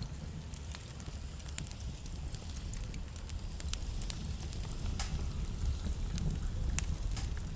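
Wood fire burning in a fireplace: irregular crackling with frequent small snaps and a few louder pops from the burning logs, over a steady low rumble of the flames.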